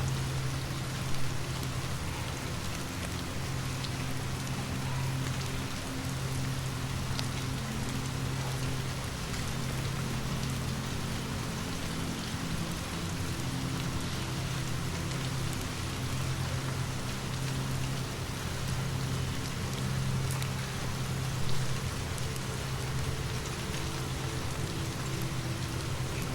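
Steady rain falling, with a low hum underneath and fine scattered patter. Two louder pops stand out, one about a second in and one about twenty-one seconds in.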